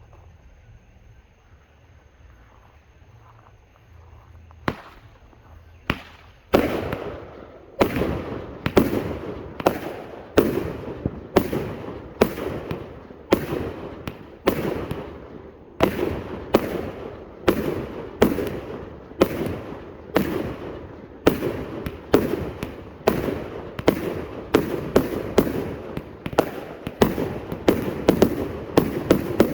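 A 400-shot Slick Willy Salute firework cake firing. After a few quiet seconds come two single pops, then from about six seconds in a continuous rapid string of shots and bangs, the loudest about once a second.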